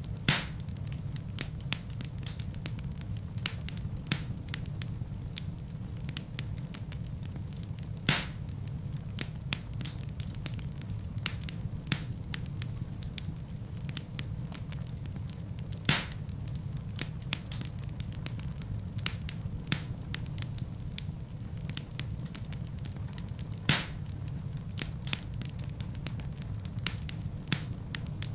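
Wood fire crackling in a fireplace: a steady low rumble of burning with many small snaps and four louder pops spaced about eight seconds apart.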